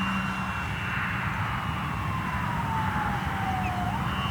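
Electric motor and propeller of a large RC Waco biplane model in flight: a whine that slowly falls in pitch as it passes, then rises again near the end, over a steady low hum.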